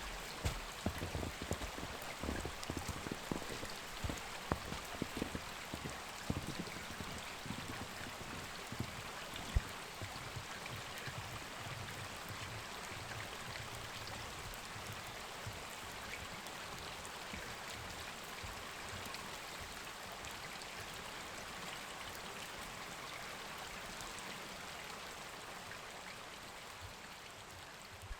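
A steady rushing hiss, with irregular crunching knocks over roughly the first ten seconds that then die away; the hiss fades down near the end.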